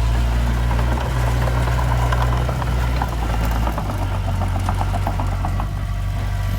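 Heavy diesel engine of earthmoving machinery running steadily, its note changing about four seconds in, with a rapid clicking rattle over the first five seconds.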